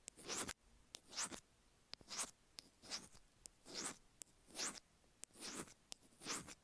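Stainless steel ear pick scraping the grooves of an iPhone earphone microphone, close to the mic: short gritty strokes about once a second, each led by a faint click.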